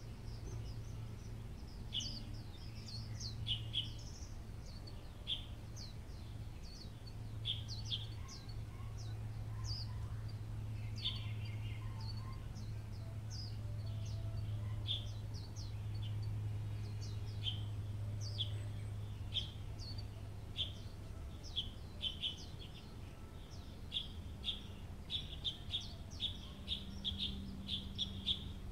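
Small birds chirping: short high chirps, scattered at first and coming in quick runs near the end, over a steady low hum.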